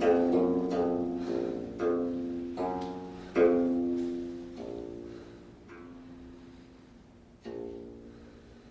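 Korean zither music: single plucked notes, each ringing out and fading, coming more and more sparsely and quietly, with the loudest note about three and a half seconds in and a last note near the end.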